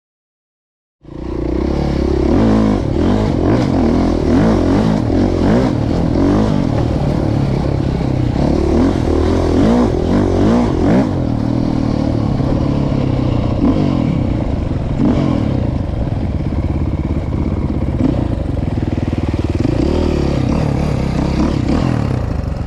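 Dirt bike engine running on a trail ride, its pitch rising and falling again and again as the throttle is opened and closed. It starts suddenly about a second in.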